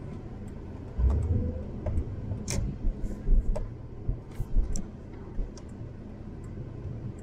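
Car driving, a low rumble of engine and road noise with a few louder surges, with scattered light clicks and knocks.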